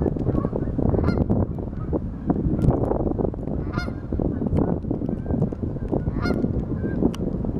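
A flock of geese honking continuously, many calls overlapping into a steady clamour, with a few louder, clearer honks standing out.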